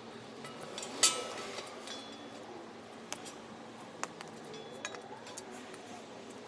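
Metal bolts, washers, nuts and rack parts clinking and tapping as they are handled during assembly, with one louder ringing clink about a second in and lighter clicks scattered after it.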